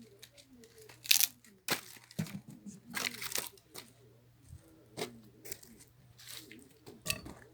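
Firewood being split with an axe: several separate sharp cracks and tearing sounds from the wood, the strongest about a second in.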